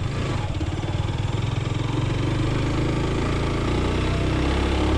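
Motorcycle engine pulling slowly uphill at low revs, uneven and pulsing for about the first second, then steadier.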